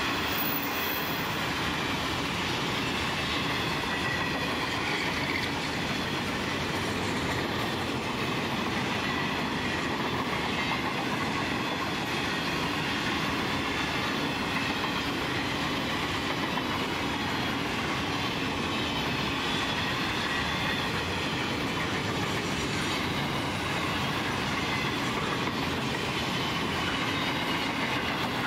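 Empty steel grain hopper wagons of a freight train rolling past, with a steady rumble and clatter of wheels over the rail. Faint wavering high squeal from the wheels runs through it.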